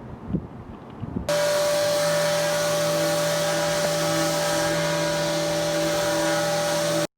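A motorised machine running at a steady, loud whir over a hiss. It cuts in abruptly about a second in, holds an even pitch, and stops abruptly near the end. Before it there is faint wind noise.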